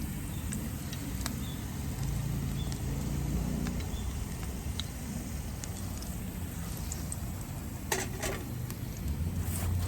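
Garlic and chili gently sizzling in olive oil in a pan over a wood fire, with scattered small pops over a steady low rumble. A couple of sharper clicks come near the end.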